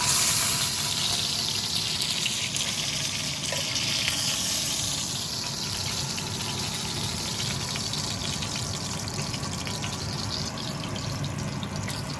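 Chicken thighs pan-frying skin side down in hot oil, a steady sizzle with fine crackling as the fat renders out.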